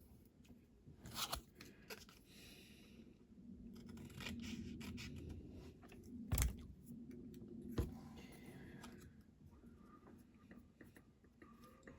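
Small clicks and scraping from hand-working a diecast metal toy van and small tools on a workbench. There are two sharp knocks, the louder about halfway through and another just after.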